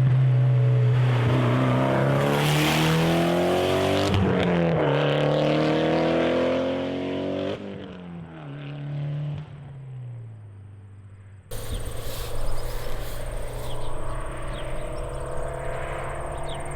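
Mitsubishi Lancer Evolution X's turbocharged four-cylinder through a loud bolt-on aftermarket exhaust, accelerating hard past: the revs climb, drop at a gear change about four seconds in, climb again, then fall away and fade. About eleven seconds in the sound cuts suddenly to an engine running steadily at low revs.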